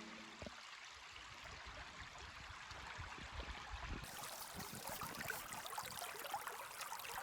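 Faint running water of a small forest stream, a steady trickling and babbling that grows brighter and busier about four seconds in.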